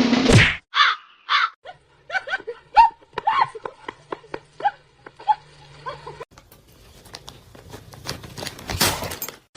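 A run of short animal calls: two calls about a second in, then a quick series of brief calls falling in pitch. A short rush of noise comes near the end.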